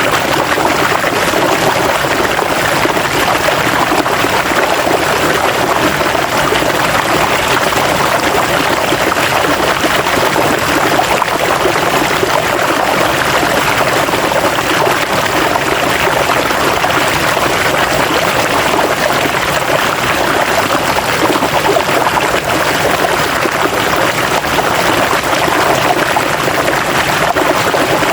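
River water rushing and splashing over rocks, a steady dense flow without pause.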